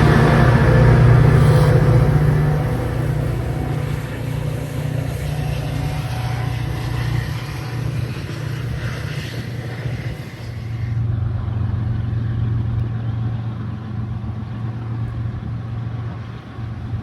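Diesel locomotive engine running, a steady low drone that is loudest in the first couple of seconds, eases off, then swells again for a few seconds past the middle.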